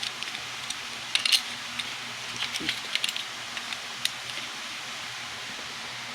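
Scattered light clicks and taps, as of small hard objects being handled, over a steady hiss; the clicks bunch together about a second in and again around two and a half to three seconds, then die away.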